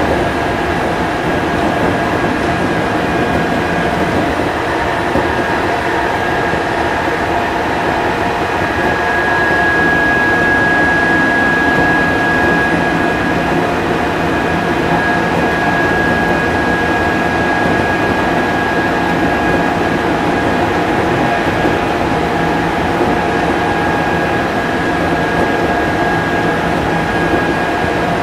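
Odakyu 5000 series electric train running at speed: a steady, loud rumble of the traction motors and wheels on the rails. A high steady whine rides over it, growing stronger about a third of the way in and easing off again after about two-thirds.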